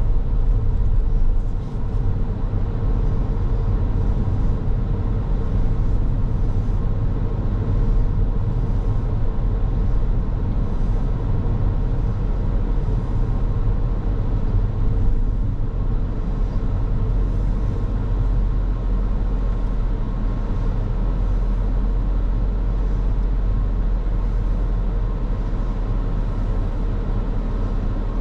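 Car driving at a steady pace: a constant low rumble of engine and tyres on the road, with a faint steady hum over it.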